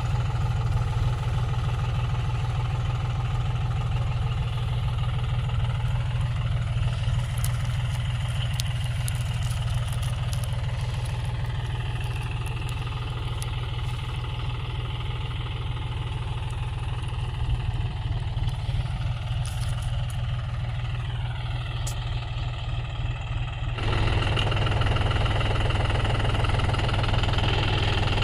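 John Deere tractor's diesel engine running steadily at low revs while pulling a cultivator, a continuous low hum; near the end the sound abruptly gets louder and fuller.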